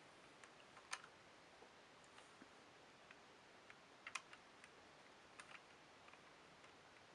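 Near silence: room tone with a few faint, short clicks scattered through it, the clearest about a second in and a pair about four seconds in.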